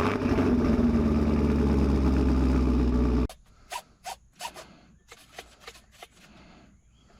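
A loud, steady engine-like running sound that cuts off abruptly about three seconds in, followed by scattered light clicks and knocks.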